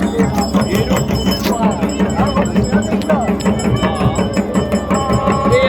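Traditional music at a village deity's gathering: a fast, steady drum beat with bells clanging and a wavering melody, voices mixed in.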